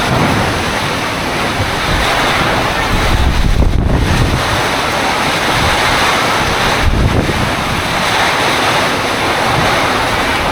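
Steady, loud wind noise buffeting the microphone, an unbroken rushing roar.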